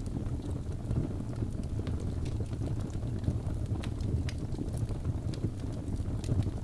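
Crackling fire: a steady low rumble of burning with irregular sharp pops and snaps scattered through it.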